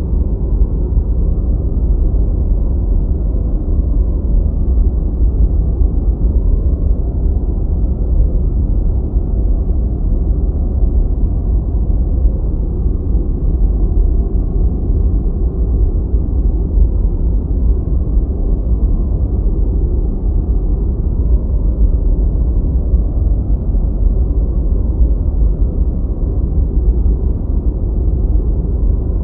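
Steady synthetic deep white noise, dark and low-pitched with no high hiss, unchanging in level.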